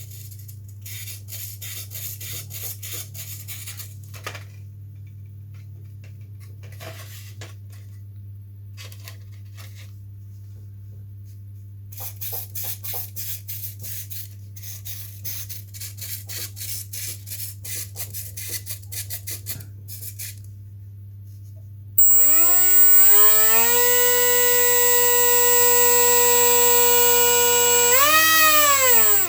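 Small RC model servos moving in quick, buzzy ticking bursts during a throw check. About 22 seconds in, the model's small electric motor and propeller spin up with a rising whine, which is the loudest sound here. The whine holds steady, rises briefly near the end, then winds down.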